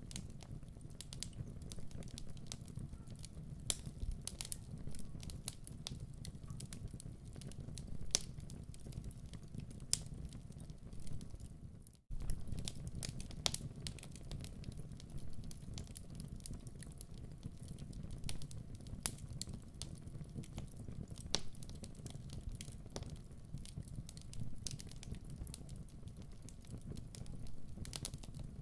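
Wood fire crackling in a fireplace: a steady low rumble of flames with irregular sharp pops and snaps. The sound cuts out for an instant about twelve seconds in.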